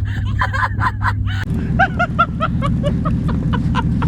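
Pickup truck engine running, pulling steadily; about one and a half seconds in the rumble turns rougher and denser. A run of short, evenly spaced high notes sounds over it.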